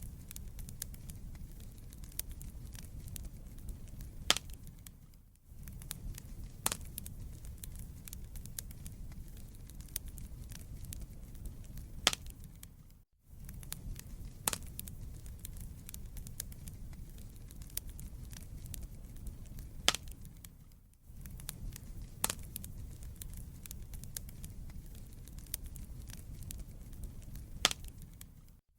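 Wood fire burning in a fireplace: a steady low rumble of flames with irregular sharp crackles and pops from the burning logs, a few louder pops standing out. The sound dips out briefly about four times, roughly every eight seconds.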